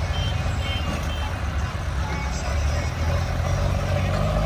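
Heavy diesel engine of loading machinery running steadily, with a few short high beeps in the first second or so.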